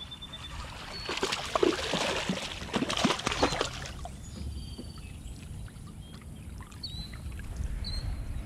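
Water splashing and sloshing around a kayak for about three seconds, then settling to a quieter low rumble, with a few short, high bird chirps.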